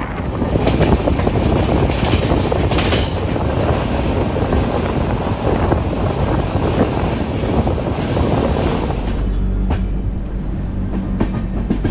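Wind buffeting the microphone over the rumble of an AC double-decker express train running at speed, heard from an open coach door. About nine seconds in it changes abruptly to a quieter low hum with a few clicks as the train rolls slowly along a station platform.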